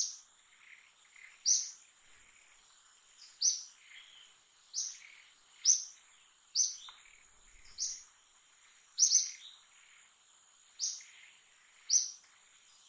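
A bird chirping over and over, a short sharp high call every second or so, over a steady high-pitched whine.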